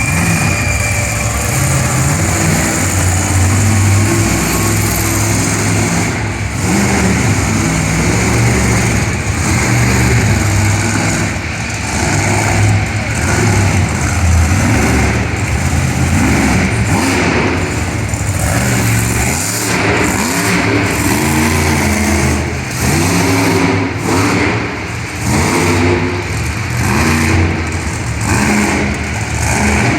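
Monster truck engine revving hard, its pitch rising and falling over and over as the truck runs its freestyle.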